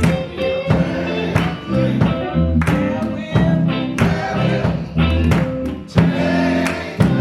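Gospel music in a church service, with a bass line, guitar and a steady drum beat.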